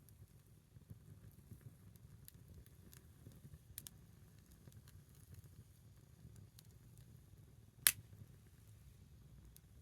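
Small wood fire crackling faintly, with sparse scattered pops and one sharp, louder pop about eight seconds in, over a low steady rumble.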